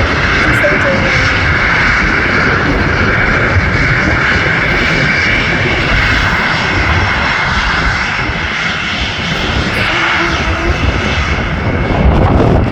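A jet airliner's engines running with a steady whine, nearly drowned by heavy wind buffeting the microphone.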